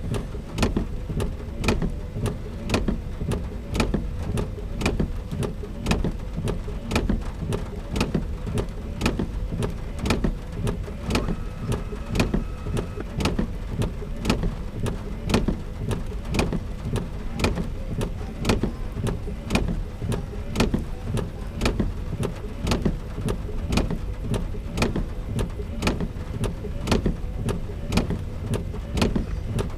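Rain and a low rumble heard from inside a car, with a sharp click repeating evenly about twice a second.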